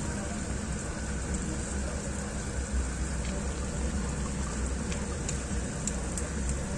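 Chicken wings sizzling and bubbling in a pan, a steady hiss with a few small pops.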